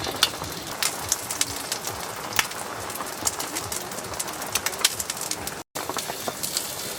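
Steady rain with many sharp drops tapping on tent fabric, and a dove cooing faintly and low underneath. The sound cuts out for an instant near the end.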